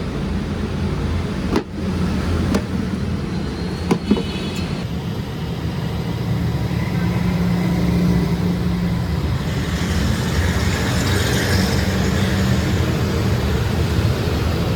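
Steady low mechanical hum of running machinery, with a few sharp knocks in the first few seconds.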